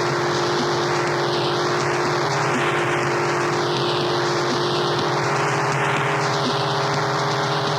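Harsh noise music: a dense, unbroken wall of static over fixed low drone tones. A slow phaser-like sweep washes up and down through the hiss every few seconds, over a faint low pulse about every two seconds, giving a jet- or propeller-like whoosh.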